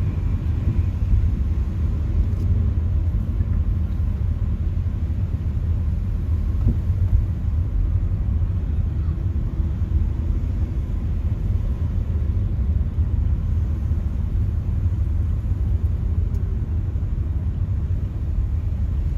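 Steady low rumble of road vehicles, deep and unbroken, with no distinct horns, revs or voices standing out.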